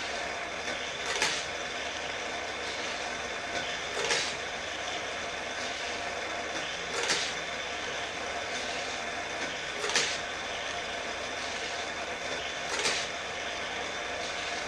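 Vintage Hot Wheels Super-Charger track booster whirring steadily, with a short loud whizz about every three seconds as the toy car is shot through its spinning wheels on each lap of the track.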